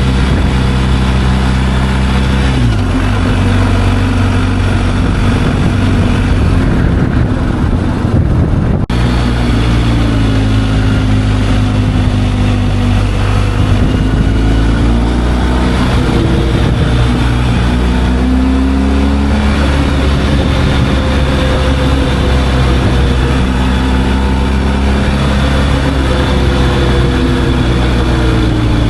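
Motorcycle engine running under way, its pitch rising and falling as it speeds up and shifts gears, with wind rumble on the microphone. The rumble drowns the engine from about three seconds in until it cuts off suddenly near nine seconds.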